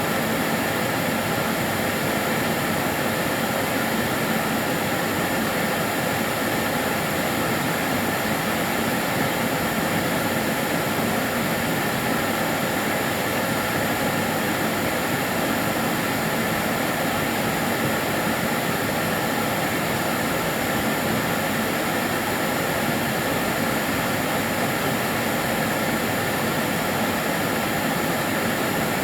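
Karcher DS 6 Premium water-filter vacuum cleaner running continuously: a steady, even motor and airflow noise with a faint high whine.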